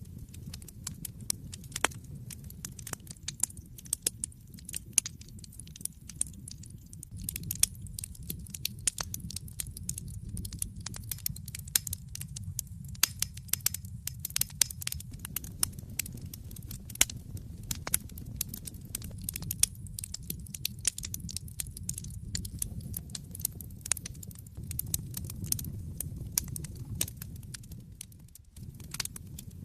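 Wood fire burning in a fireplace, crackling: many sharp pops and snaps, several a second, over a steady low rumble of the flames.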